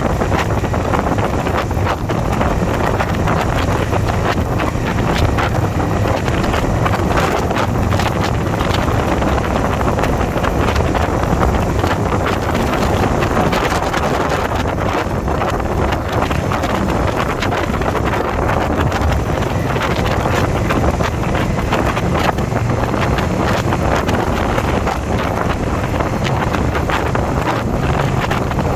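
Wind rushing over the microphone of a moving Indian V-twin motorcycle, with the engine running steadily underneath.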